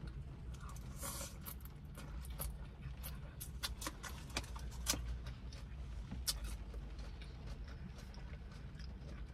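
Chewing a mouthful of tuna salad with lettuce: irregular crisp crunches and mouth clicks over a low steady hum.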